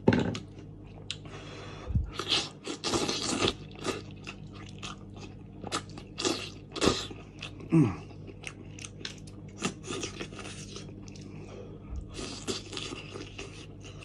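Close-up chewing and crunching of roast sheep's head meat: crunchy bites and wet chewing with many sharp clicks, busiest in two spells, near the start and near the end, over a steady low hum.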